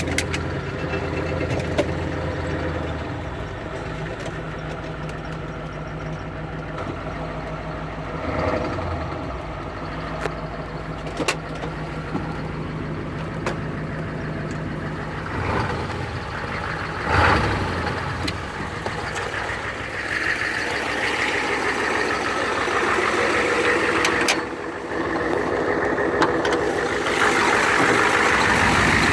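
Turbocharged vehicle engine running steadily, with a few short surges and a louder, hissing sound that builds over the last few seconds. It is being listened to for signs of a failing turbo.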